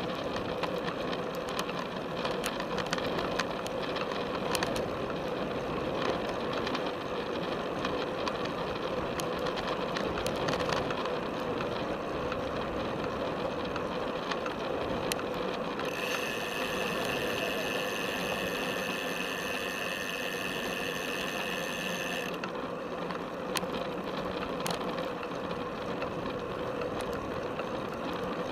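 Felt F75 road bike being ridden, heard through a camera strapped to its top tube: steady tyre and road noise with frequent small clicks and rattles from the frame and mount. A steady high tone joins in for a few seconds past the middle.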